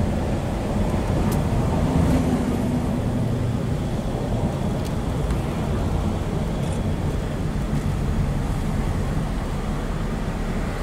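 Ford Mustang driving along, heard from inside the cabin: a steady low rumble of engine and road noise with a faint engine hum.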